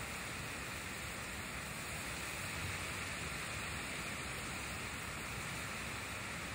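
Heavy downpour in a severe windstorm: a steady hiss of rain, with water streaming off the porch roof edge.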